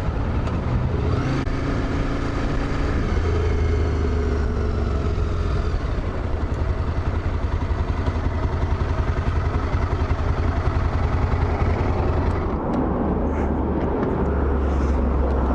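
Motorcycle engine running while riding, a steady low rumble whose pitch rises gently in the first few seconds and then sinks slowly.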